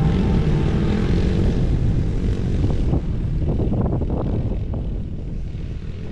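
An engine running with a steady rumble, fading away near the end.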